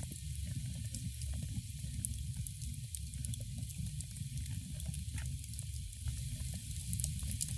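Wood fire burning in a fireplace, crackling with frequent small sharp pops over a steady low rumble.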